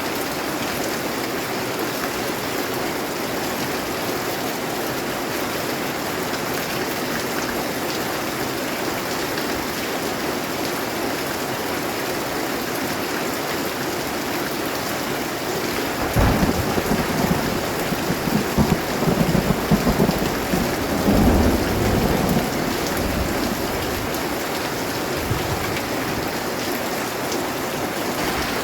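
Steady rain hissing, with a rumbling roll of thunder coming in about halfway through and crackling on for several seconds before dying back to the rain.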